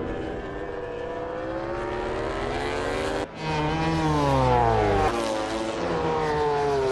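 MotoGP racing motorcycle engine running at high revs, its pitch rising and falling. The sound cuts out briefly about three seconds in and comes back louder, with the pitch sliding down.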